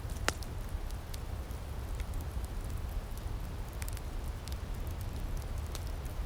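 Outdoor wood fire in a firepit crackling: scattered sharp pops and snaps over a steady low rumble, the loudest pop about a third of a second in.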